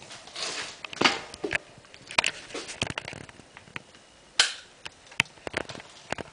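Close handling of a zooming LED flashlight: irregular sharp clicks and short rubbing swishes, the loudest about a second in and again a little over four seconds in.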